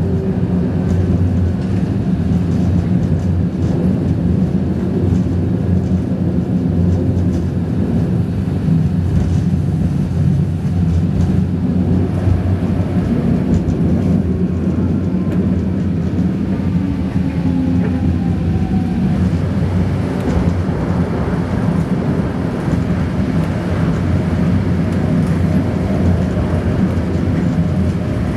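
OC Transpo light-rail train running along the track, a steady low rumble heard from on board, with a faint whine that slides down in pitch around the middle.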